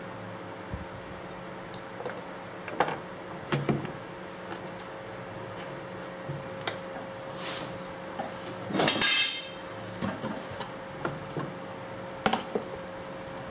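Intermittent clicks, knocks and taps of hard parts and tools being handled during an electric drill's disassembly, with a longer scraping rattle about nine seconds in, over a steady low hum.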